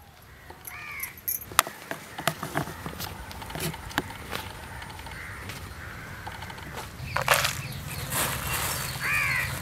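A bird calls twice outdoors, with a short call about a second in and another near the end. Scattered light clicks and taps fall in between, and a low steady hum comes in near the end.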